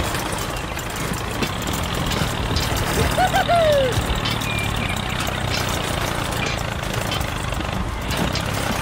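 Steady engine-like running of the toy tractor driving its cone drill into a rock, with a low hum throughout. About three seconds in, a short pitched squeal falls in pitch.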